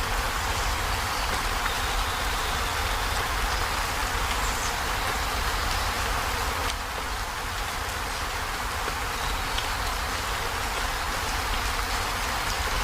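Heavy rain drumming on a corrugated zinc roof: a steady, dense hiss of drops over a low rumble, easing slightly about seven seconds in.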